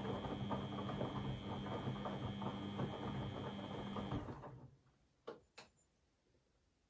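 Beko WMB 71643 PTE washing machine running with a steady hum and a high whine over a churning rattle, which cuts off about four seconds in and dies away. Two sharp clicks follow about a second later.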